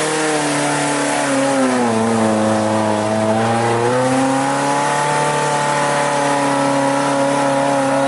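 Off-road jeep engine working in deep mud. Its revs sink about two seconds in, then climb again a couple of seconds later, over a steady low hum.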